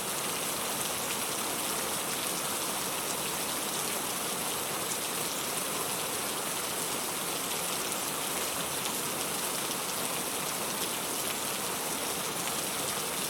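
Steady rain falling, an even hiss of many fine drops on a surface, with no thunder.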